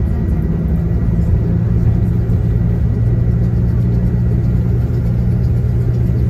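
Diesel shuttle coach's engine running steadily under way, heard from inside the cabin: a constant low drone over road rumble, holding one pitch.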